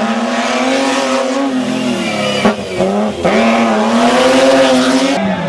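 A hillclimb race car's engine under hard acceleration, its note climbing. It drops at two quick gear changes near the middle, with a sharp crack at the first, then climbs again.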